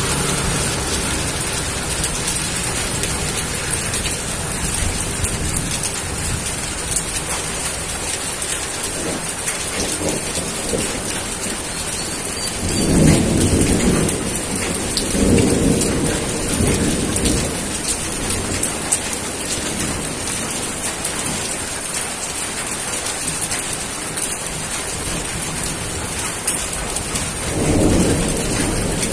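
Steady rain falling, with low rolls of thunder rumbling about halfway through and again near the end.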